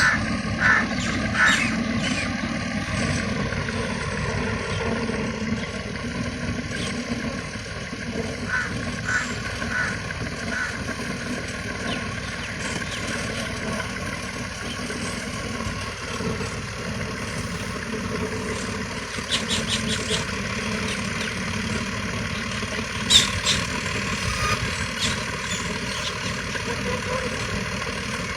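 Bird calls in a field: short groups of quick chirps come a few times, with one sharp louder call about two-thirds of the way through, over a steady low rumble.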